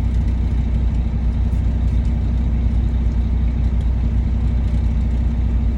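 Semi-truck's diesel engine running steadily, a low even drone.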